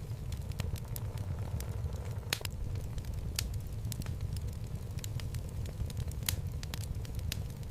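Wood fire burning in a fireplace: a steady low rumble of the flames with irregular sharp crackles and pops of the burning logs, several a second.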